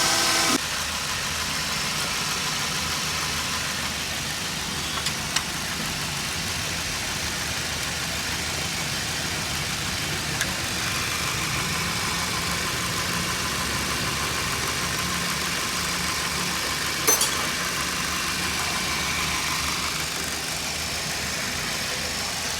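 Toyota Corolla XLi engine idling steadily, with a couple of short clicks.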